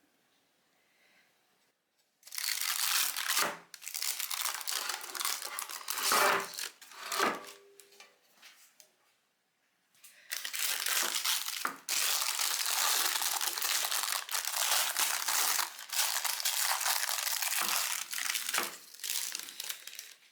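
Crinkling and crumpling of wrapping being handled, in two long spells with a short pause between, and a couple of dull knocks in the first spell.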